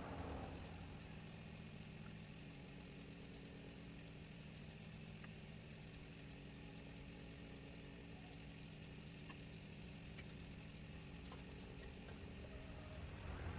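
Steady low hum of a running electric motor in a woodturning shop, with a few faint ticks; a louder rushing noise dies away in the first half second.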